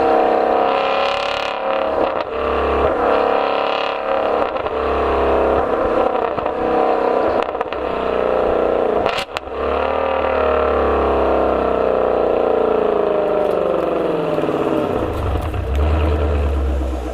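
Ford Mustang Shelby GT350R's 5.2-litre flat-plane-crank V8 running hard under acceleration, its pitch rising and falling. About nine seconds in there is a sharp break, then the engine climbs again, and near the end it winds down.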